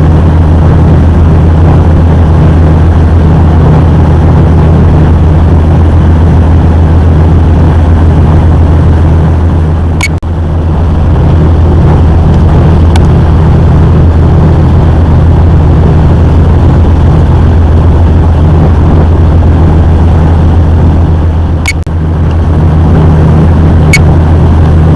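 A river sightseeing boat's engine running under way, a steady low drone with a rushing noise over it. A few brief clicks come through, the first about ten seconds in.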